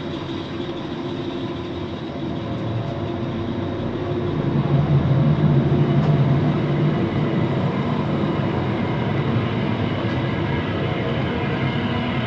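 Ferry engines running with a steady drone, rising to their loudest about four seconds in and easing a little after about seven seconds.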